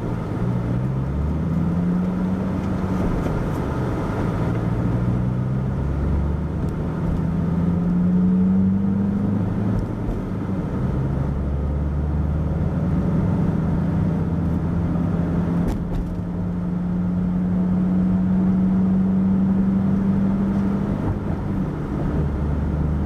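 Car engine heard from inside the cabin, its pitch climbing through the gears with drops at the shifts about 3 and 10 seconds in, then running steady at cruising speed before easing off near the end.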